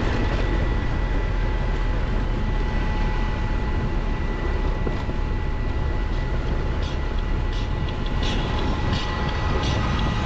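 Triumph Tiger 1200 XCX adventure motorcycle's engine running steadily on a dirt road, heard through heavy wind and road rumble. Several short sharp clicks in the last few seconds.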